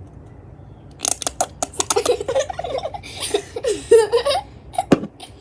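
Children giggling and laughing, with sharp clicks mixed in, starting about a second in and lasting about four seconds.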